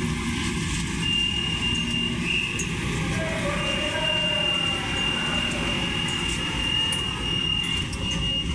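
Manila MRT-3 train in motion, heard from inside the carriage: a steady low rumble with a thin high-pitched squeal held over it for most of the time, breaking off for a moment about two seconds in.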